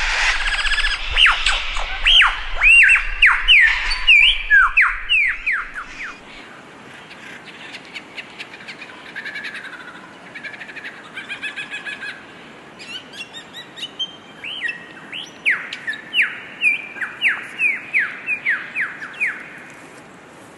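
A cage bird giving a quick run of loud whistled notes, each sweeping downward, in a cackling laugh that mimics a kuntilanak's laugh. Softer chatter and twitters follow, then a second laughing run near the end.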